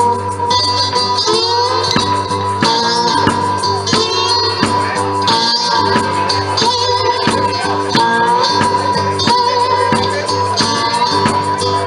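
Live blues band playing an instrumental passage: guitar over a steady, even percussive beat, with sustained wavering lead notes.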